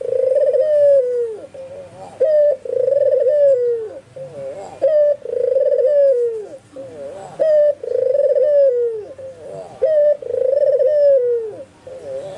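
White ringneck (Barbary) dove cooing: five repeated calls, each a short note and then a long rolling coo that drops in pitch at its end, about every two and a half seconds.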